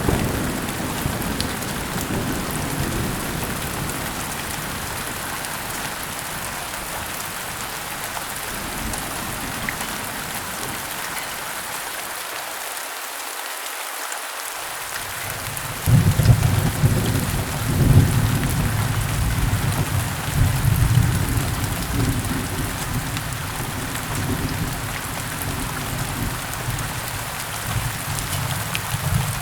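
Heavy rain falling steadily, with rolling thunder. A low rumble fades away over the first several seconds. A new roll of thunder breaks in suddenly about halfway through, loudest for the next few seconds, then slowly dies away under the rain.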